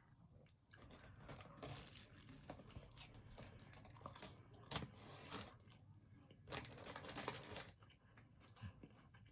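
Faint eating sounds of a person chewing and tearing at food, with a few soft crunches and clicks scattered irregularly, the strongest around the middle.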